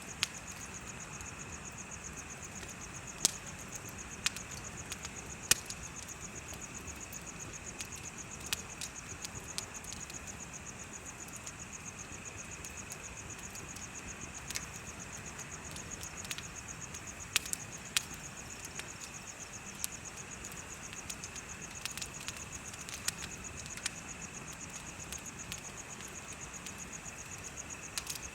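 Bonfire crackling, with sharp pops at irregular intervals, over insects chirping steadily: a high, fast-pulsing trill and a lower continuous one.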